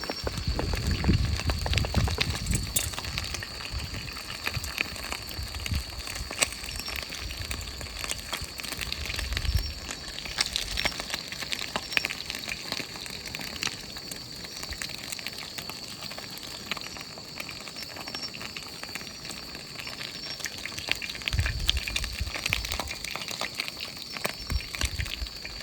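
Chicken wings deep-frying in oil over a campfire: a steady sizzle with many small crackles and pops.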